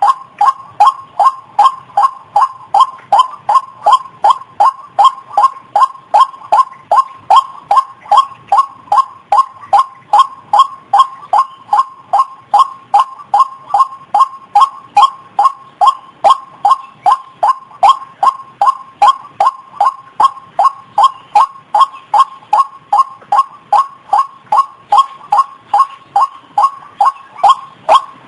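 White-breasted waterhen (ruak-ruak) calls played as a bird-lure recording: one short note repeated monotonously and evenly, about two to three a second, without a break.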